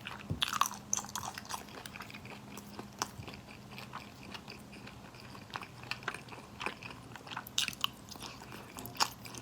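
Close-miked eating: a person biting and chewing crunchy food, with many short, irregular crunches and wet mouth clicks.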